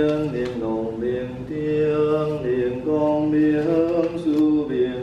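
A voice chanting a liturgy in long held notes, stepping from pitch to pitch about once a second: ritual chanting for a deliverance-of-souls rite.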